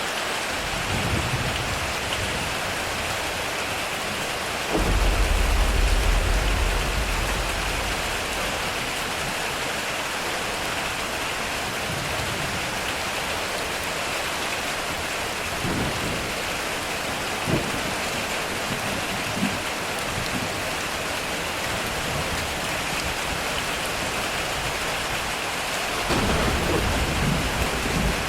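Heavy rain drumming steadily on a metal roof, with a sudden loud thunder rumble about five seconds in that fades over a few seconds, and another rumble of thunder starting near the end.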